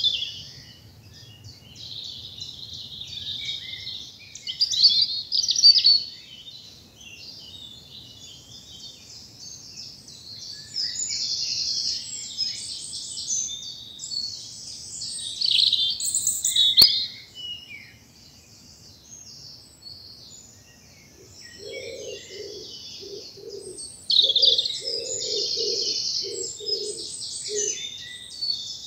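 Springtime woodland dawn chorus: many songbirds singing and calling at once in overlapping high trills and chirps. A lower call of short repeated notes joins in for several seconds in the second half.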